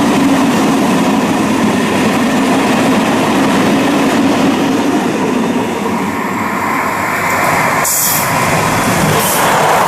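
Freight train rolling past, a steady loud noise of wagon wheels running on the rails. Two short high hissing bursts come near the end.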